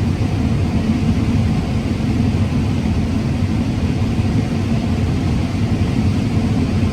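Combine harvester running steadily under load while cutting corn: a constant low engine and machinery drone.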